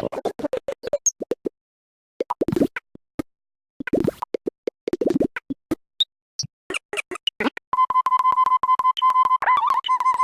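Very short snippets of bird recordings triggered one after another from a touch-screen sound browser, giving a stuttering, chopped string of calls with brief silent gaps. About three-quarters of the way in, a steady single-pitched whistle-like tone sets in and is retriggered rapidly.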